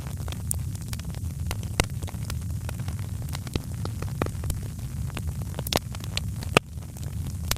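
Wood fire in a fireplace crackling: a steady low rumble of the burning logs with frequent sharp pops and snaps, a few louder ones about two seconds in and near the end.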